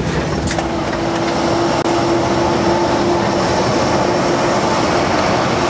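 Steady hum and air rush inside the cabin of a parked Boeing 737NG, with a faint steady tone over it, typical of the ventilation and auxiliary power running at the gate. A few faint clicks sound near the start.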